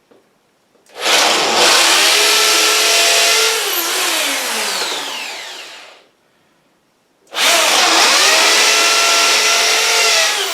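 Electric hammer drill in hammer mode boring a 6 mm hole into a wall, in two runs of a few seconds each; after each, the motor winds down in a falling whine. The second run starts about seven seconds in.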